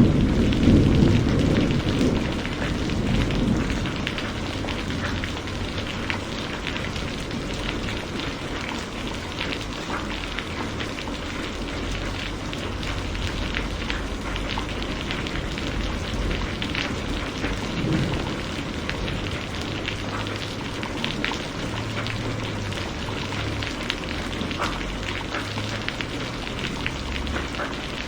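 Heavy rain falling steadily, with scattered individual drop impacts, as a low rumble of thunder fades out over the first few seconds.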